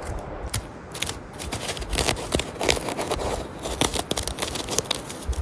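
Irregular sharp clicks and crackles over a scraping, rustling noise.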